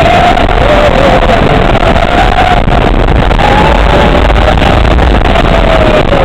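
Wooden roller coaster train running along the track at speed, a loud, distorted roar of wheels and wind buffeting the microphone, with a wavering high tone over it.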